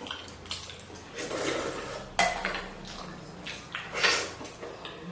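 Cutlery clinking and scraping against a bowl while eating noodle soup: a few sharp clinks, the loudest about two seconds in and about four seconds in, the first with a short ring.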